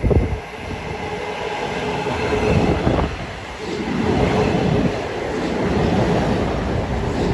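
Long Island Rail Road train running past, with a steady rumble of wheels on rail and a faint steady whine. There are sharp knocks at the very start and about three seconds in.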